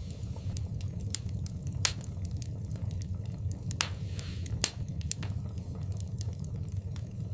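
Wood fire in a fireplace crackling: scattered sharp pops and snaps over a steady low rumble, with louder pops about two and four and a half seconds in and a brief hiss around four seconds in.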